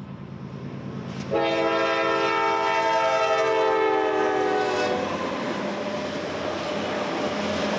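Norfolk Southern diesel locomotive sounding its multi-chime air horn for about three and a half seconds, the chord dropping slightly in pitch as it passes, over a low engine drone. Then the steady rumble and clatter of the train rolling by.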